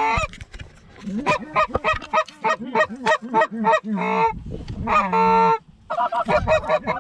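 Hand-blown Canada goose calls sounding a fast, even run of honks and clucks, about three a second, broken by two longer drawn-out notes near four and five seconds in: hunters calling to geese flying in over the decoys.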